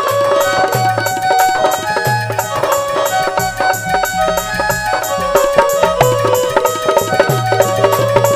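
Instrumental passage of Indian folk devotional music: a hand drum plays a steady repeating rhythm under a held melody line, with regular high ticks keeping time.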